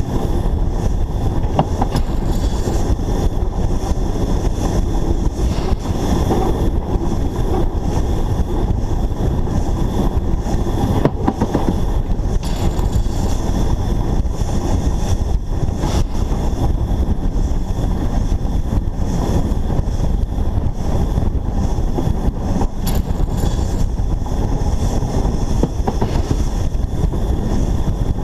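Narrow-gauge steam locomotive under way, heard from a camera mounted on the locomotive itself: a steady, loud rumble with occasional short clicks.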